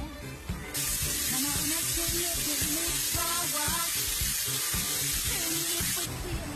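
High-pressure spray wand at a coin-op car wash spraying water onto a truck: a steady hiss that starts abruptly about a second in and cuts off near the end. Background music plays underneath.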